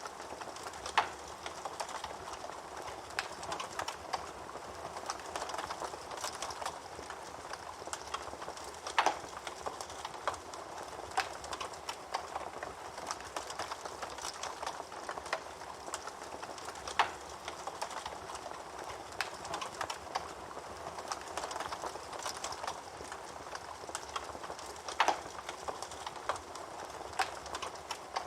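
Wood fire burning in a fireplace: a steady crackle, with a sharp louder pop about every eight seconds.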